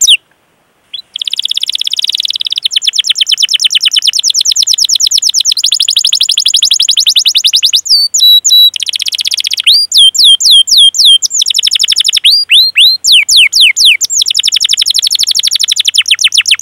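Domestic canary singing after about a second of silence: long, very fast rolling trills, broken in the middle by loud falling 'cuit cuit' notes, then rolling again.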